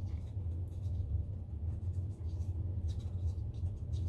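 Bristle paintbrush scratching and dabbing paint onto paper in short, irregular strokes, over a steady low hum.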